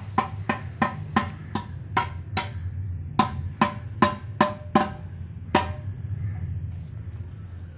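Hammer striking metal, about three ringing blows a second in two runs with a short pause between them, then one last blow. A steady low hum runs underneath.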